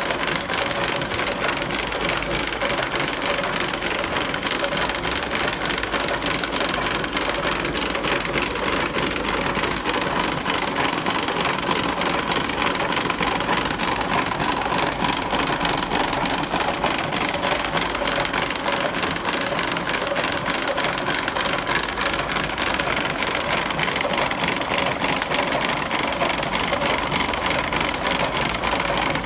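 Electric cigarette-making machine running, its all-mechanical works clattering in a fast, steady run of clicks.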